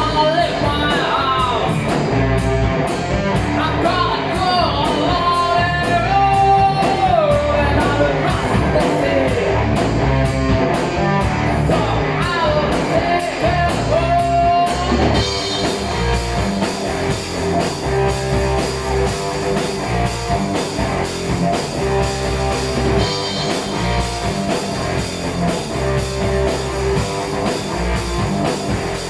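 Heavy metal band playing live: distorted electric guitars, bass and drums. For about the first half a bending, wavering lead melody rides on top, then the sound changes to the full band playing on.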